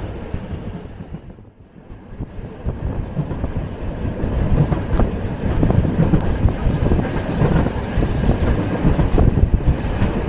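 Suburban electric train running along the track, heard from inside the carriage: a steady rumble of wheels on rails with irregular knocks. The sound fades almost away about a second and a half in, then swells back to full level.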